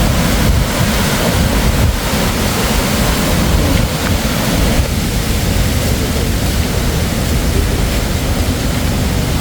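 A small river rushing over rocks, not quite a waterfall: a loud, steady noise of flowing water.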